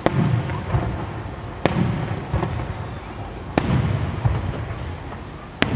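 Aerial firework shells bursting: four loud bangs about two seconds apart, each trailing off in a low rolling echo.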